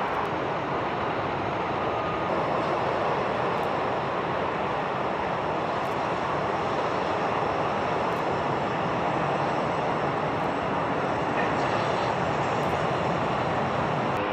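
Jet airliner engines, a steady, even rush of noise that neither rises nor falls.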